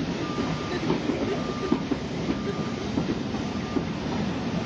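Passenger train coaches rolling past at close range, wheels rumbling and knocking over the rail joints, with a thin high squeal that comes and goes about once a second.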